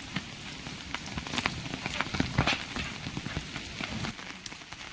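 Heavy rain falling, with the irregular sharp taps of large drops striking close by.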